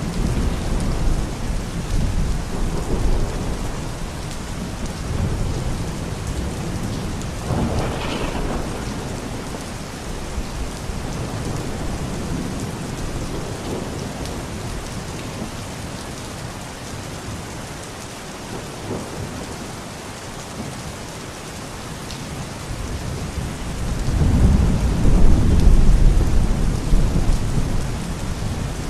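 Steady rain falling, with rolling thunder; a deep, louder rumble of thunder swells near the end.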